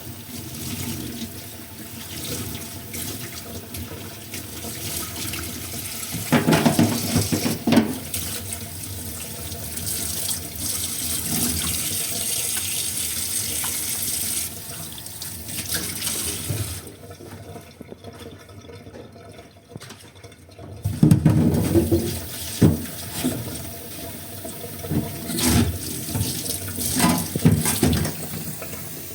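Kitchen tap running into a sink while dishes are washed, with bursts of louder splashing and clattering of dishes. The running water stops for a few seconds about two-thirds of the way through.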